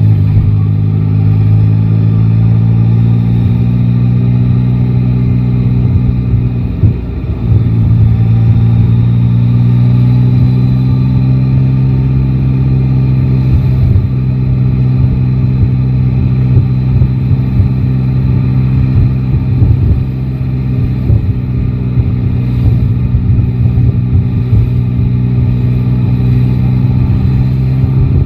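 Yamaha Tracer 9 GT's 890 cc inline-three engine running steadily while riding. Its pitch dips briefly about seven seconds in, then climbs slowly.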